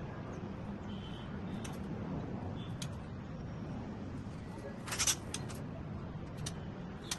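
White-rumped shamas moving about a mini aviary: scattered short chirps, clicks and rattles, with a louder burst of sharp clicks about five seconds in, over a steady low background murmur.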